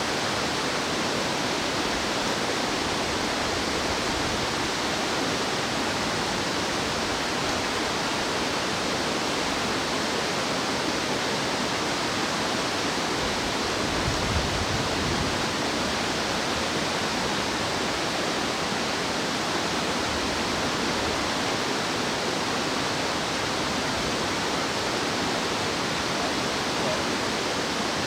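Rushing water of a mountain stream, a steady even hiss, with a brief low bump about halfway through.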